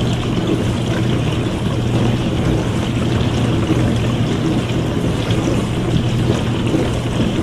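Dishwasher running a wash cycle: a steady motor hum under continuous spraying and sloshing water.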